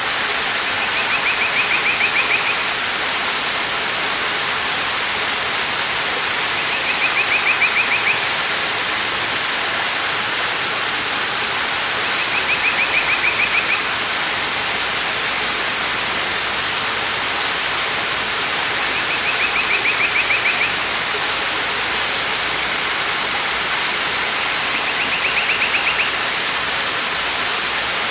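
Steady rush of a waterfall. A bird's rapid trill, about a second and a half long, comes five times, roughly every six seconds.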